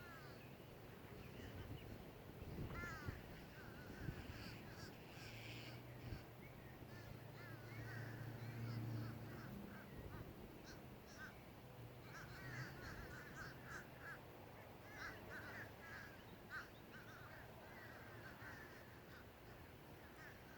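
A flock of birds calling at the lakeside: many short, quick calls repeated in clusters, faint. A low hum comes in for a few seconds around the middle.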